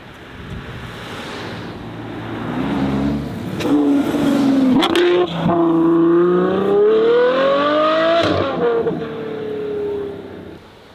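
A performance car accelerating hard as it drives away. Its engine note climbs through the gears with upshifts about three and a half, five and eight seconds in, then falls away as it pulls off.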